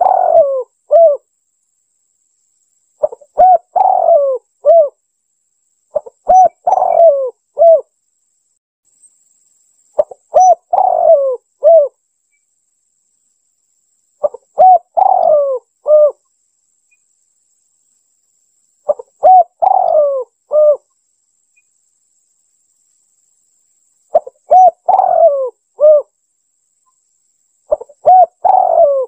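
Spotted dove (tekukur) cooing: a short multi-note coo phrase about a second and a half long, repeated about every four seconds with silence between, played as a bird-trapping lure call.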